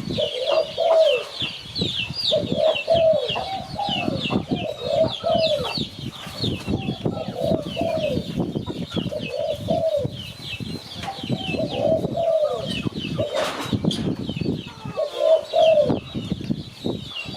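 Spotted dove cooing over and over in short phrases, over a steady layer of quick high-pitched chirping from other birds. A brief rushing noise cuts across about three-quarters of the way through.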